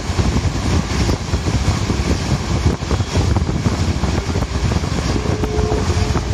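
Passenger train running at speed, heard from inside the carriage: a steady, loud rumble of the wheels and running gear on the track.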